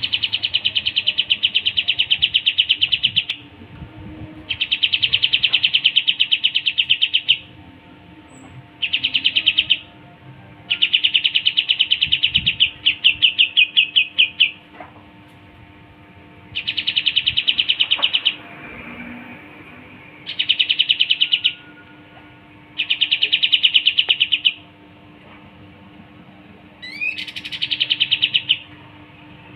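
Kapas tembak songbird singing: fast, buzzy trills of evenly repeated notes, given in about eight bouts of one to three seconds with short pauses between them, and a quick rising whistle near the end. A faint steady hum lies underneath.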